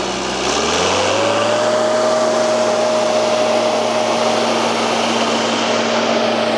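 Farm tractor engine running, picking up speed about half a second in and then holding steady at higher revs.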